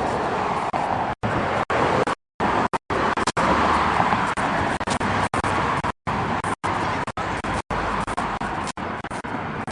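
Steady road traffic noise, broken again and again by brief moments of total silence where the recording drops out.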